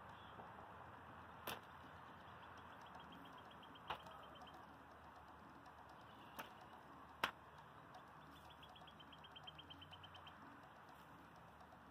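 Quiet outdoor ambience with four sharp clicks, the loudest a little past halfway, and two rapid, even trills from a small bird, one just before the middle and one near the end.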